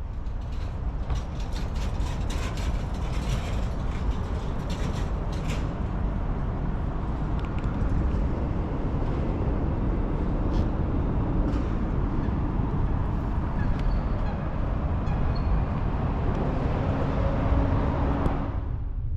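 Suzuki FAVAS23 boat's engine running steadily, a low rumble, with a few light clicks and knocks in the first few seconds.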